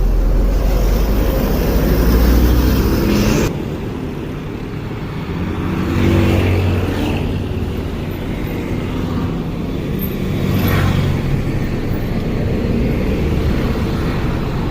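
Large bus engines running at a bus depot. A heavy low rumble drops away suddenly about three and a half seconds in, then the engine sound swells and fades twice.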